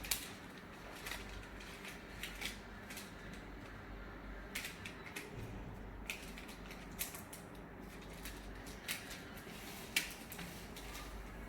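A sheet of paper being folded and creased by hand: scattered, irregular crackles and rustles of the paper.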